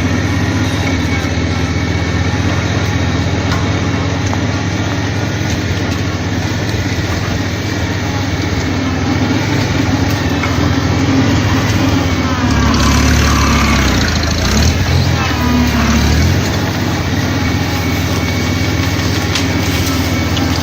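Cub tractor engine running steadily; about twelve seconds in it grows louder for a few seconds, then settles back.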